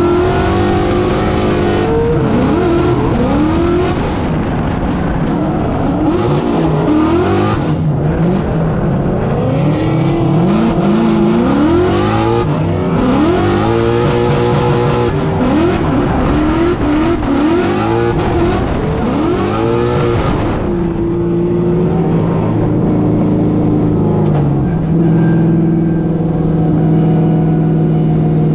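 Drift car engine revving up and down over and over through a drift run, under a broad hiss. About twenty seconds in the hiss drops away and the engine settles to steadier, lower running.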